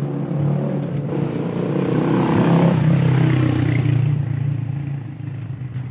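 A motor vehicle's engine passing close by, growing louder to a peak about halfway through and then fading away.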